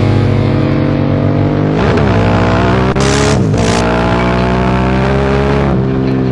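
Sport motorcycle engine running hard at high revs; its pitch drops and climbs again about two seconds in and again about three and a half seconds in, like gear changes under acceleration.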